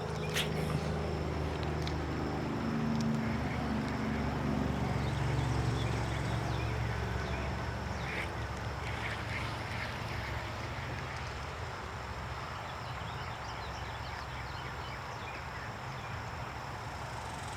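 Steady rush of moving creek water, with a low engine drone that swells and slowly drops in pitch over the first several seconds as it passes, then fades.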